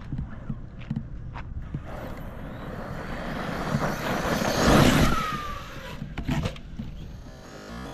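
ARRMA Kraton EXB V2 RC monster truck driving over dirt: the rush of its tyres and brushless electric motor builds to a peak about five seconds in, then falls away with a dropping whine and a few sharp knocks.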